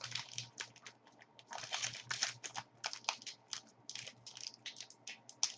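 Crinkling and tearing of a card pack's wrapper as it is worked open by hand: many quick, irregular crackles, with the opening proving a struggle.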